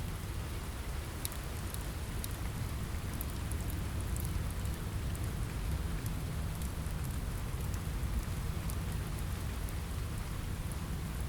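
Steady rain on a window glass over a low rumble, with scattered small sharp crackles from a wood fire in a fireplace.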